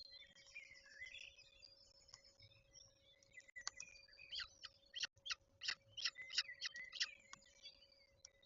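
Birds chirping and calling, with a quicker run of sharp, repeated notes from about four seconds in. A faint steady hum lies underneath.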